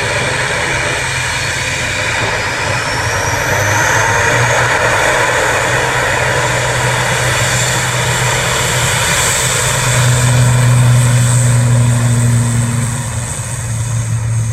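Airliner engines running loud and close, with a deep steady hum under a broad rush and a thin whine that rises in pitch over the first few seconds. It grows loudest about two-thirds through and eases off near the end.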